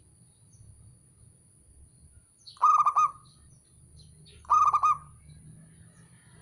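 Zebra dove (perkutut) cooing: two short, rolling, pulsed coo phrases about two seconds apart, the first about two and a half seconds in, with a third starting right at the end.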